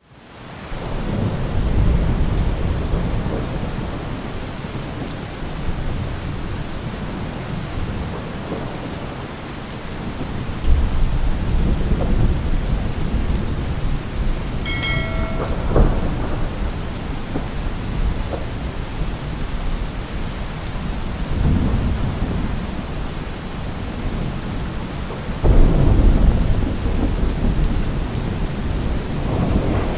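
Steady heavy rain with several rolls of low thunder rumbling in over it, the strongest near the end. The sound fades in at the very start.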